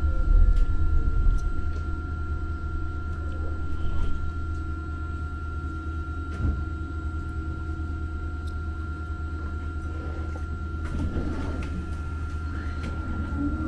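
Interior running noise of a Muni Metro light-rail car: a steady low rumble with a constant high whine, easing off over the first two seconds, and a single knock about six and a half seconds in.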